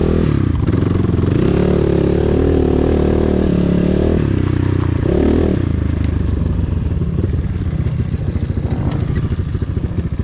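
Enduro motorcycle engine revving as it rides off, its pitch rising and falling several times in the first half, then running more roughly at lower revs for the rest.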